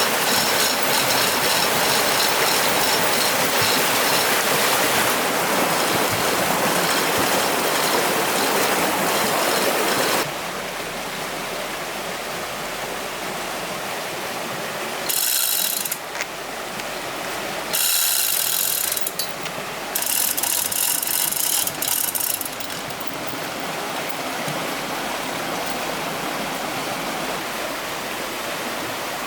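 Flowing water rushing steadily, with short bursts of fast, ratchet-like mechanical clicking from the lifting gear, three times in the middle of the stretch.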